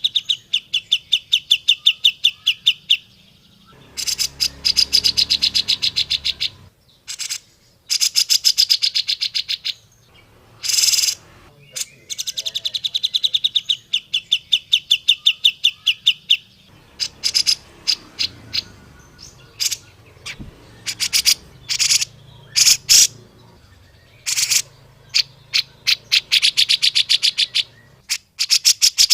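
Cucak jenggot (grey-cheeked bulbul) singing in fast, chattering trills of about ten notes a second. Each bout lasts two to three seconds, with scattered single sharp notes between the bouts.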